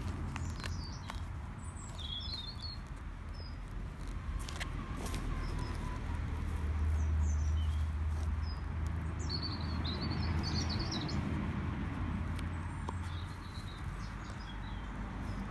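Small birds chirping on and off, over a steady low rumble, with a few light clicks.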